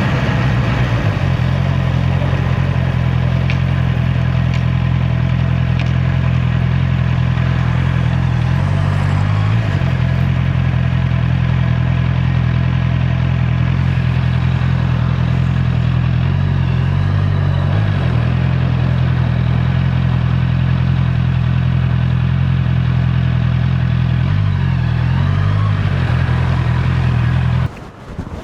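Honda CB650R's inline-four engine running steadily while riding, its pitch dipping and recovering briefly a few times. The sound cuts off abruptly near the end.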